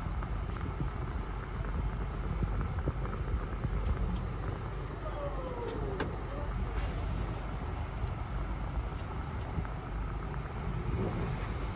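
Automatic tunnel car wash equipment running, heard from inside the car: a steady low rumble and rushing noise, with a brief falling whine about halfway through and a louder hiss of spray building near the end.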